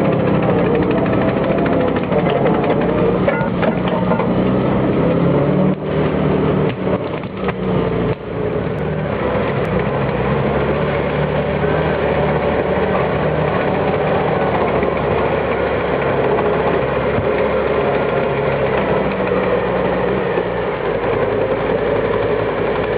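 Valtra T131h tractor's diesel engine running steadily, with a few short knocks and clatters between about six and eight seconds in.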